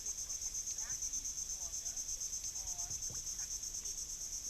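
Steady, high-pitched insect chorus, rapidly pulsing, with a few faint short chirps and whistles scattered through it.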